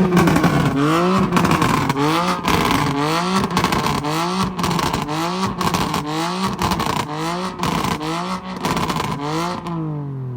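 Car engine revved hard in quick repeated pulses, its pitch rising and dropping about one and a half to two times a second, with a crackle over it. Near the end the revs fall away in one long drop.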